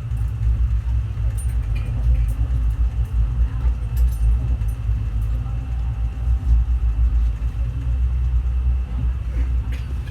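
Steady low rumble of an Indian Railways passenger train running, with a few faint clicks.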